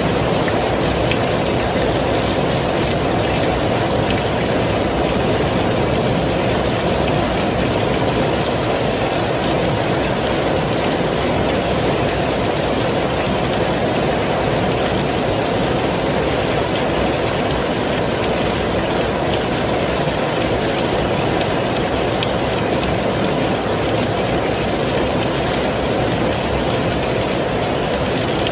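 Heavy rain falling steadily: a dense, unbroken rush of noise, heaviest in the lower range, with no separate drops or changes.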